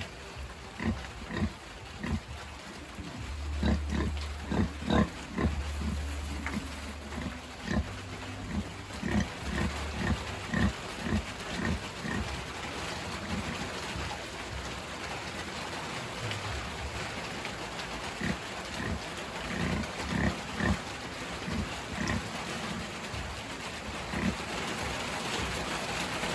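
A sow and her piglets grunting: many short, low grunts in quick succession, loudest and densest in the first half.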